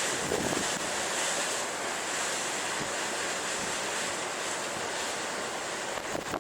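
Storm surf and wind at sea: a steady, unbroken rush of breaking waves, with no single crash standing out.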